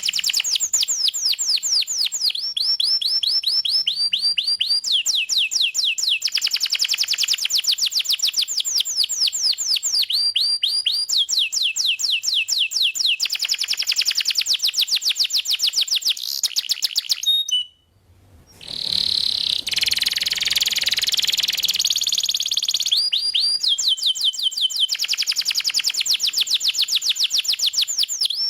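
Domestic canary singing loud, rapid trills of repeated down-sweeping notes, changing to a new trill every couple of seconds. About eighteen seconds in the song breaks off for a moment, followed by a denser, noisier passage of song before the clear trills resume.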